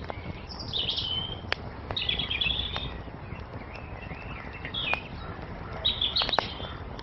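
Songbirds chirping in four short twittering phrases over a wood fire crackling, with sharp single pops now and then, two close together near the end.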